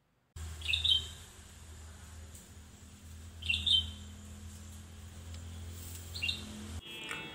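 A bird chirping three times, a few seconds apart, over a steady low hum. Music starts right at the end.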